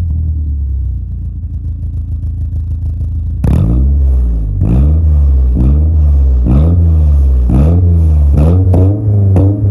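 BMW M44B19 four-cylinder engine idling through a Friedrich Motorsport stainless-steel exhaust. About three and a half seconds in, it is suddenly revved in a series of sharp blips, about one a second, each rising and falling back. The blips come quicker near the end.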